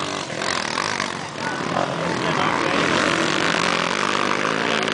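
Motocross dirt bike engines running hard on the track, their pitch rising and falling as the riders work the throttle.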